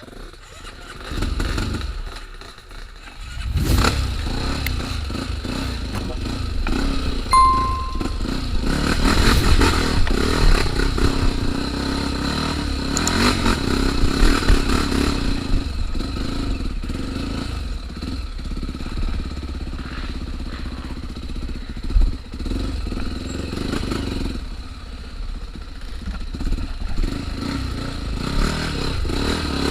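Off-road motorcycle engine running under way on a trail, its level rising and falling with the throttle, with a sharp thump about two-thirds of the way through.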